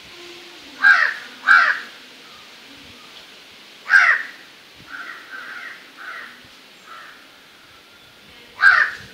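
A bird calling with loud, harsh caws: two close together about a second in, one at about four seconds, another near the end, with softer calls in between.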